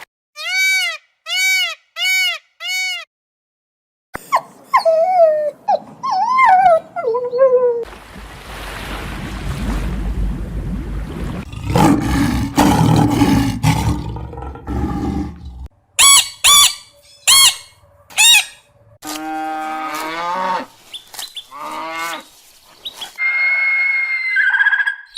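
A series of different animal calls, one clip after another. It opens with four identical short calls and has a long, loud, low rumbling roar in the middle, then several shorter calls.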